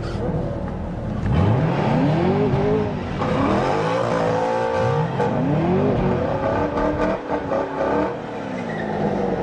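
Car engine revving: the pitch climbs and drops back three times, each rise lasting about a second or so.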